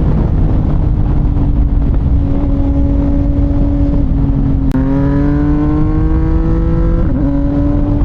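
CFMOTO 675NK inline-three engine through a titanium full-system exhaust, heard on the move over low wind rumble. It runs at a steady note, then after a sharp click about halfway through it rises in pitch as the bike accelerates for a couple of seconds, then eases back.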